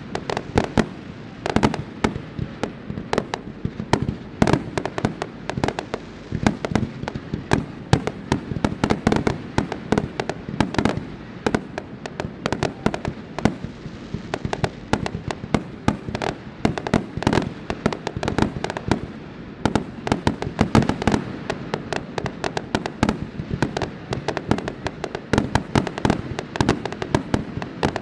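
Aerial fireworks display in a rapid, continuous barrage, several sharp bangs and booms a second with no break. The loud booming echoes back and forth across a lake.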